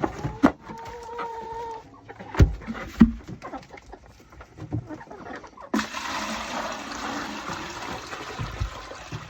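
Hens clucking, one holding a drawn-out call at first, and two loud clunks about two and a half and three seconds in; from about six seconds water runs steadily into a chicken waterer as it is filled.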